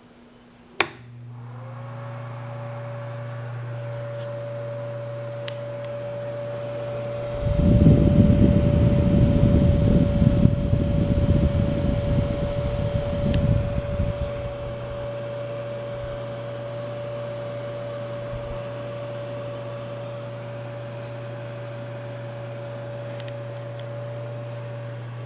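A switch clicks on and the electric fireplace heater's fan motor spins up, then runs with a steady hum and an even, high-pitched tone. From about seven to fourteen seconds in, a louder, irregular low rumble rises over it, then the steady running continues.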